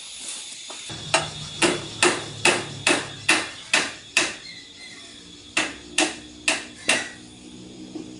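Hammering: eight sharp blows about two a second, a short pause, then four more.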